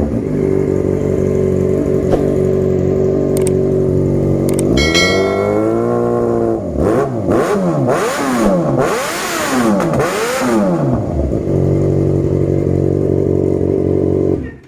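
Yamaha XJ6's inline-four engine through an aftermarket exhaust, idling steadily, then revved once up and down about five seconds in, followed by several quick throttle blips, and settling back to idle.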